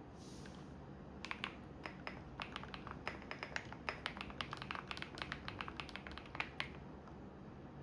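Typing on a computer keyboard: a run of irregular keystrokes from about a second in until near the end, after a brief hiss at the start. Under it runs the steady low hum of a washing machine.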